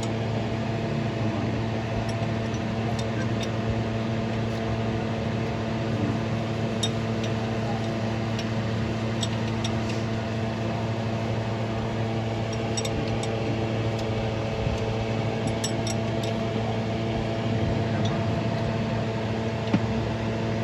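Steady machine hum at one unchanging pitch, with scattered light metallic clicks and clinks.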